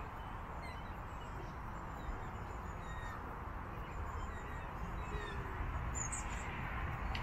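Outdoor ambience of birds calling, short scattered chirps and calls over a steady low rumble of wind on the microphone.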